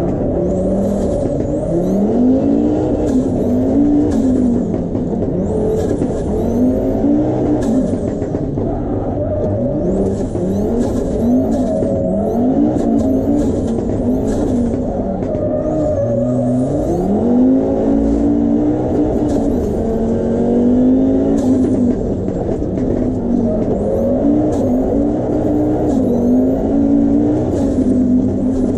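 Audi Quattro Group 4 rally car's turbocharged five-cylinder engine, heard from inside the cabin, revving hard. Its pitch climbs and drops again and again through the gear changes, with high turbo whistles rising over the top.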